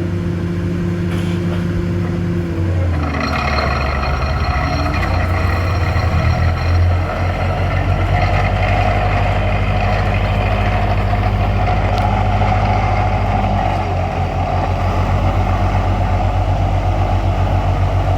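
A large vehicle's engine running. Its pitch drops about three seconds in, then it settles into a louder, steady drone with a low pulsing rumble.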